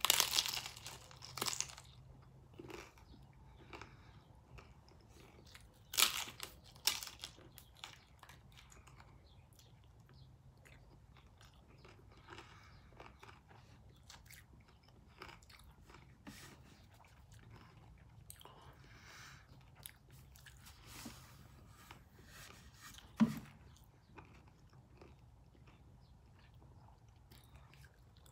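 A person biting into a crisp tostada shell topped with shrimp and chewing it. Sharp crunches come at the start and again about six seconds in, with quieter chewing between. A single dull thump comes a little after twenty-three seconds in.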